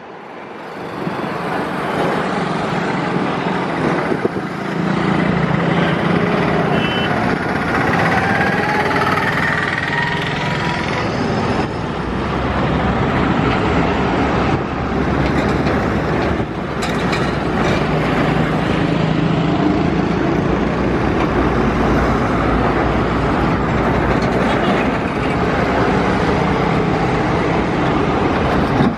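Heavy diesel trucks and buses moving in slow highway traffic: a steady, loud engine drone mixed with traffic noise. It swells up over the first couple of seconds.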